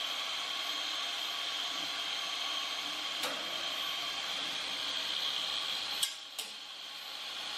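Angle grinder running steadily with a high whine, cutting through steel hog panel wire wrapped around a tiller. Its sound drops off briefly about six seconds in, then picks up again near the end.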